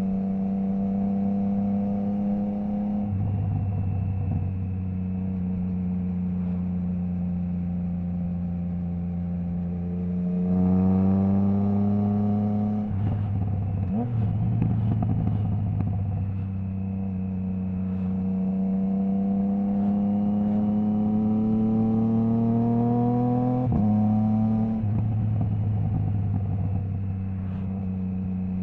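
Triumph Trident 660 inline three-cylinder engine running through a Zard stainless full exhaust with the baffle removed, heard on the move. Its pitch climbs slowly over several seconds at a time, broken by a few sudden pitch changes as it changes speed.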